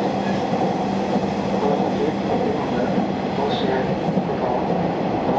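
Hanshin 8000 series electric train running at speed, heard from inside the passenger car: a steady rumble of wheels on rail with a low steady hum.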